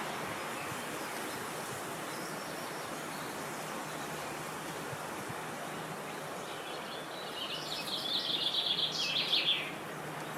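Steady wind noise, with a songbird singing a rapid run of high notes for about three seconds near the end and a faint call earlier on.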